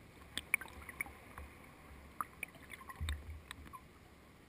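Small irregular knocks, clicks and water sounds around a kayak, over a low rumble that swells about three seconds in.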